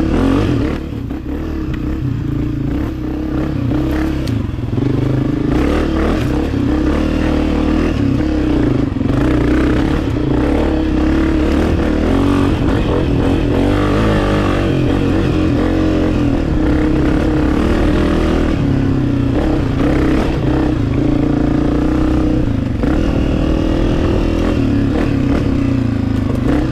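Two-stroke dirt bike engine running on the trail, easing off briefly about a second in, then pulling steadily with small rises and falls in pitch.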